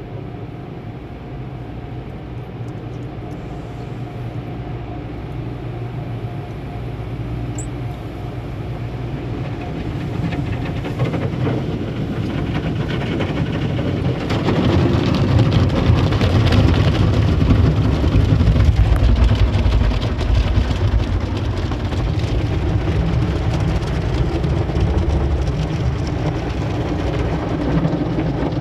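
Automatic car wash machinery heard from inside the car: a steady low rumble with a hiss that builds and grows louder about halfway through.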